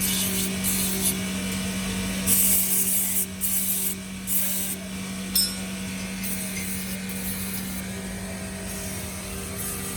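Several short scraping strokes of a workshop tool over a steady machine hum, with one sharp click about five seconds in.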